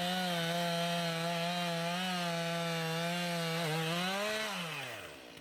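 Two-stroke chainsaw cutting through a log at a steady high speed; near the end its pitch rises briefly, then falls away as the saw winds down.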